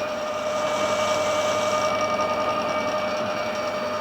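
Metal lathe running steadily with a constant whine from its drive.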